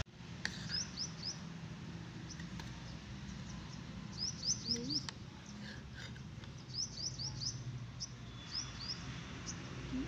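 Small birds chirping in quick runs of three or four short rising notes, four runs in all, over a low steady hum. A few sharp clicks of a metal spoon against a steel bowl come in between.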